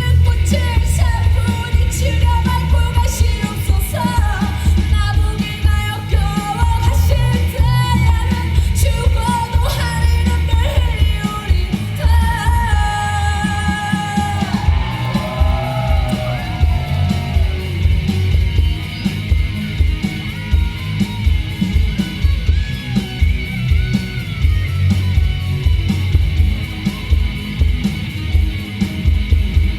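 Live band music at concert volume with a heavy, steady kick-drum beat, and a woman's singing voice that glides and wavers around the middle.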